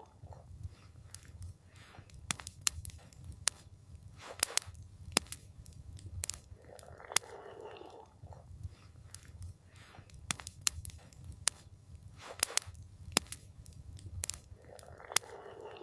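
Campfire crackling, with frequent sharp pops and snaps of burning wood over a low steady rumble. A short soft whooshing swell comes back about every eight seconds.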